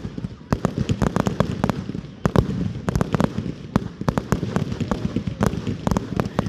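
Fireworks going off in a dense, irregular run of sharp bangs, several a second, over a steady low rumble.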